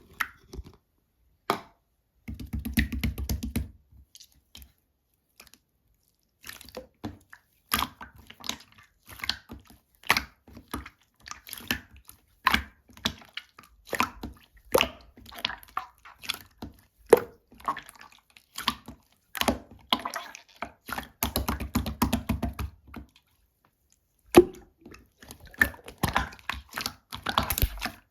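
Grape konjac jelly being squished and pressed by hand: a run of short wet clicks and squelches, with two spells of rapid crackly squishing, one early and one about three quarters through.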